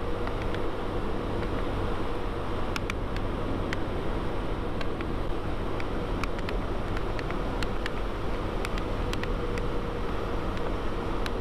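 Yamaha Vino 125 single-cylinder scooter running steadily at cruising speed, its engine hum mixed with wind rushing over the rider's microphone.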